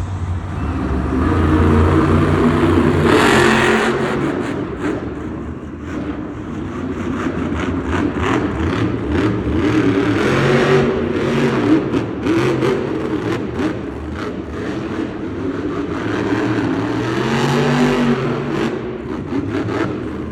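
Grave Digger monster truck's supercharged V8 revving hard and easing off again and again during a freestyle run, with a short loud burst of noise about three seconds in.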